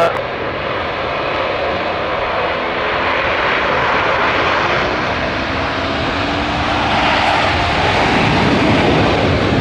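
Blue Angels F/A-18 Super Hornet jets taking off together in afterburner, a dense jet noise growing steadily louder as the formation passes.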